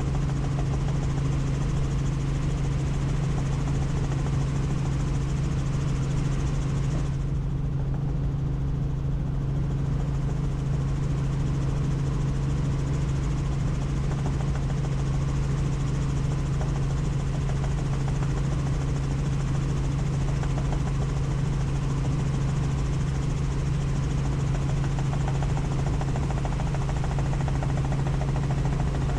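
Helicopter in flight: the steady drone of the rotor and engine, with a strong low hum under an even rushing hiss. The hiss thins for a couple of seconds about seven seconds in.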